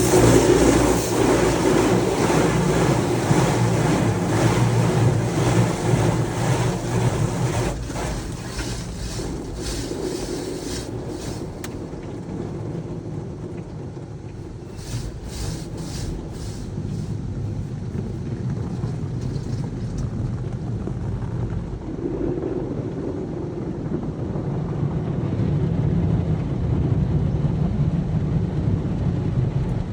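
Car wash machinery running: a steady low motor hum under a broad rush of spraying water. A run of brief clicks or spurts comes in the middle.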